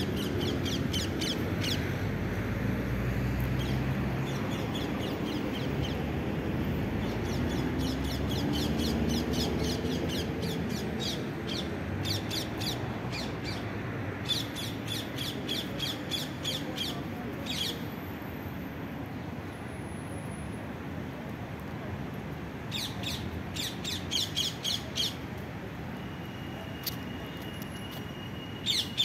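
Birds chirping in rapid runs of short, evenly repeated high notes, coming in several bursts with pauses between them, over a steady low outdoor rumble.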